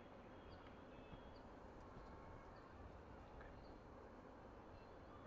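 Near silence: faint outdoor ambience with a bird giving short, high chirps about once a second.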